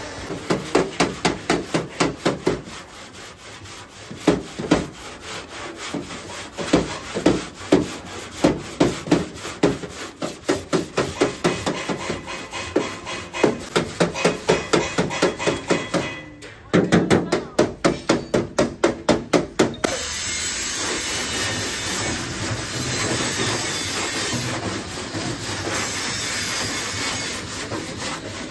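Hand tool working on car body metal in rapid, regular strokes, about five a second, with a short pause about two-thirds of the way in. The strokes then give way to a steady rasping noise for the last several seconds.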